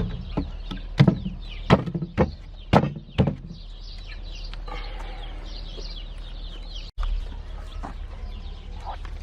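Young chicks peeping in quick, high, falling chirps, with several sharp knocks in the first three seconds.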